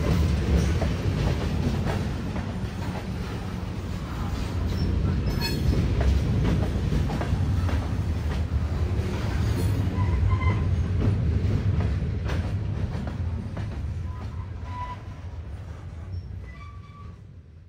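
Freight train cars rolling past: a steady low rumble with wheel clicks over rail joints and a few brief faint wheel squeals. It fades out near the end.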